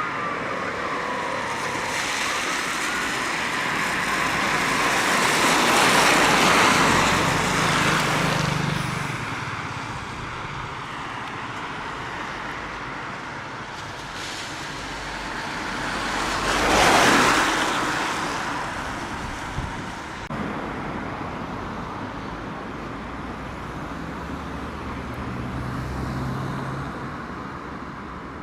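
Road traffic with vehicles passing close by: one swells and fades about six seconds in, and a louder one about seventeen seconds in. A siren trails off in the first couple of seconds.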